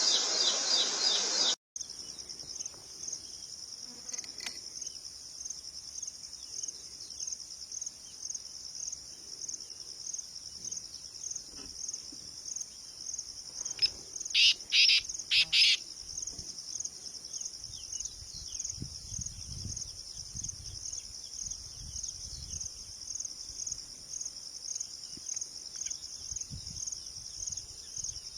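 Crickets chirping in a steady, evenly pulsed high trill, with a bird giving three short, loud calls about halfway through. Before that, a louder sound cuts off abruptly about two seconds in.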